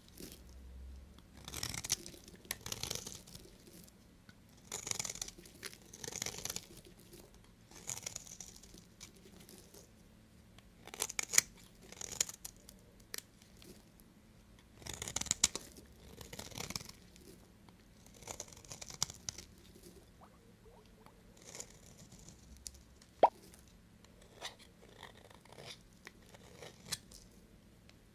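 A knife cutting through bars of soap: a series of short crunching, tearing strokes every second or two, with a few sharp clicks, one louder than the rest about two-thirds of the way through.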